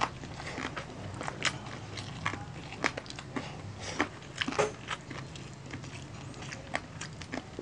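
Close-miked chewing of super crispy roast pork belly (bellychon): irregular sharp crunches and crackles of the skin and meat between the teeth.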